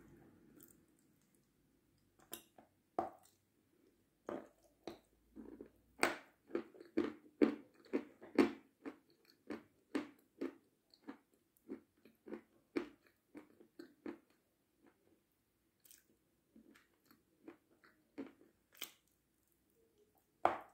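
Biting and chewing a crunchy Seversky sweet: a run of crisp crunches starting about two seconds in, densest and loudest around six to nine seconds in, then thinning to scattered crunches, with one sharp bite near the end.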